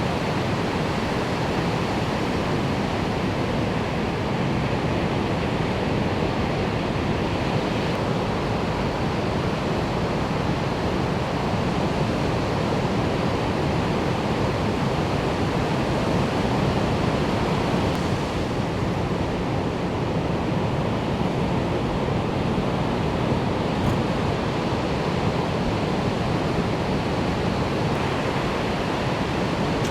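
Ocean surf at the shore, a steady, unbroken rush of breaking waves.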